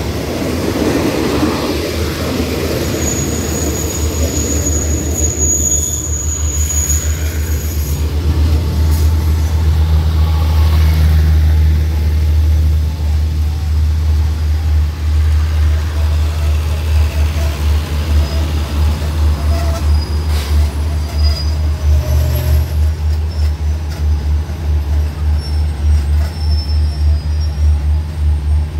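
Passenger train coaches rolling slowly past: a steady deep rumble with a regular rhythmic pulsing of wheels over the rails, the train still moving as it comes in to stop. A thin high wheel squeal rises from about 3 to 7 seconds in.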